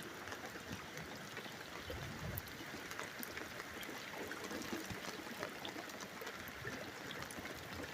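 Steady rain falling, with water trickling and scattered small drip ticks.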